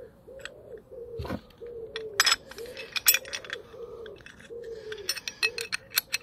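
A bird cooing over and over, short low coos about two a second, with sharp metallic clinks and taps of tools and brake parts being handled, the loudest a little over two and three seconds in.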